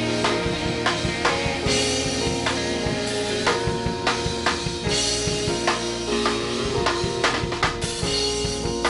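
Worship music: a drum kit keeping a steady beat under held chords.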